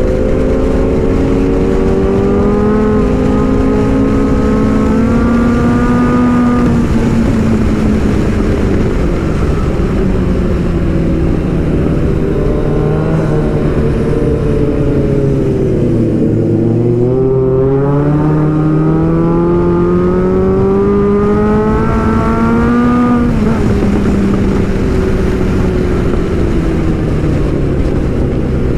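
Kawasaki Z900 inline-four motorcycle engine heard from the rider's seat under way, its note climbing as it accelerates, sinking slowly to a low about halfway through, then climbing again and dropping off near the end, over steady wind and road rush.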